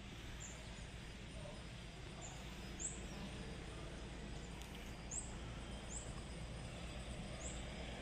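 Steady outdoor background noise with a low rumble, and a bird giving short, very high chirps now and then, about six in all.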